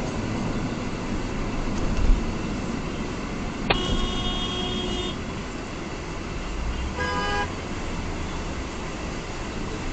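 Steady road noise from a moving car, with a car horn honking for about a second and a half a little over a third of the way in, and a second, shorter honk of a different pitch a few seconds later.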